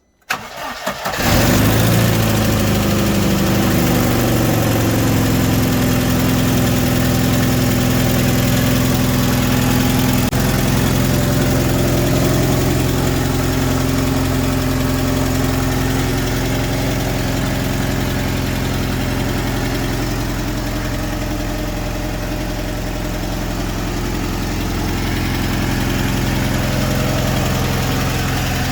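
UAZ Patriot's ZMZ-409 inline-four petrol engine cranking and catching within the first second or so, then idling steadily.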